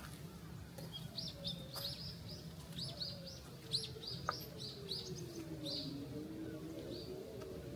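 Birds chirping in a quick series of short, high calls through the first half, with two sharp clicks a little before and after the midpoint.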